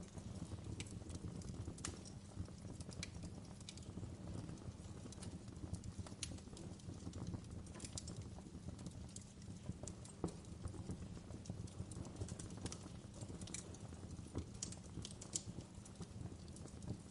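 Wood fire in a fireplace crackling, with scattered sharp pops and clicks over a low, steady rumble of the flames.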